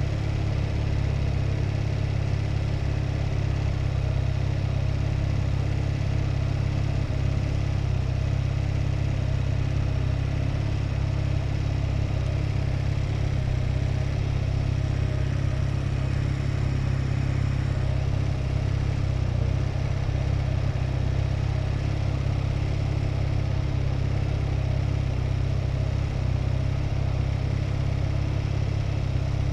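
Honda Rebel motorcycle cruising steadily at freeway speed: a constant low rumble of engine and wind, muffled by the camera's waterproof GoPro housing.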